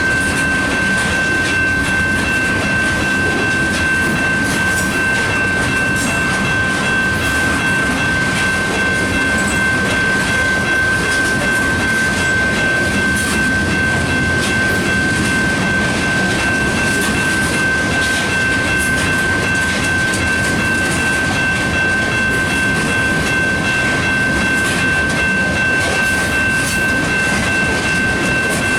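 Freight train of ethanol tank cars rolling past, a steady rumble and clatter of wheels on rail with a steady high-pitched tone running through it.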